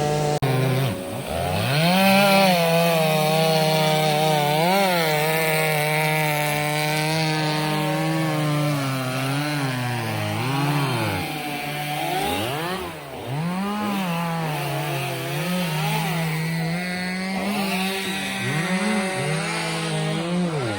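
Stihl two-stroke chainsaw running under load, cutting wood. Its engine note sags again and again as the chain bites and climbs back up between cuts.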